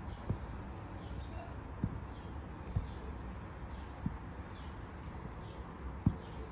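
Faint suckling sounds of a Savannah kitten nursing from a Siamese cat: small repeated smacks, with a few soft low bumps.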